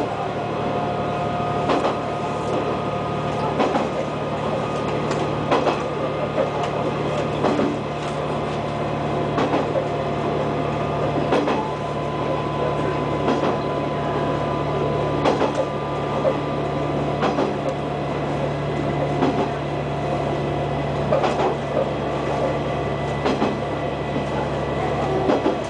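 KiHa 120 series diesel railcar under way, a steady low engine drone with a faint whine, and its wheels clicking over rail joints every second or two.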